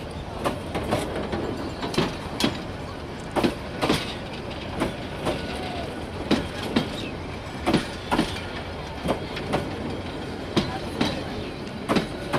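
Bangladesh Railway intercity passenger coaches rolling past over a steady rumble, their wheels clicking over rail joints in pairs, one pair about every one and a half seconds.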